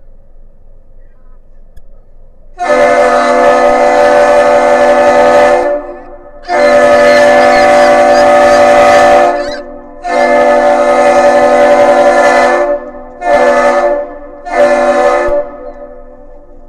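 Great Lakes freighter's air horn sounding a loud, many-toned chord in three long blasts and two short ones: the traditional master's salute given on entering the harbour.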